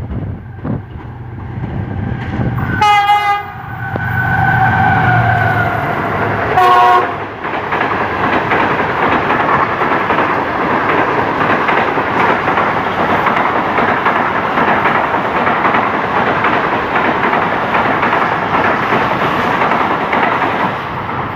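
A GEU-40 diesel-electric locomotive sounds its horn three times, a short blast, a longer one held about a second and a half and another short one, over its engine rumble as it approaches. Then the passenger coaches of the express run past at speed with a steady loud rush and clatter of wheels on rail.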